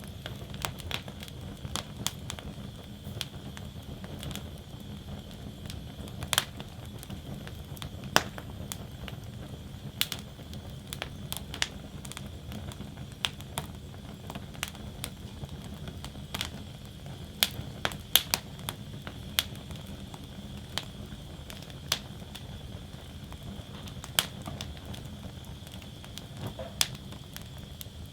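Wood fire burning in a fire basket, crackling: sharp, irregular pops and snaps, sometimes several in quick succession, over a steady low rumble.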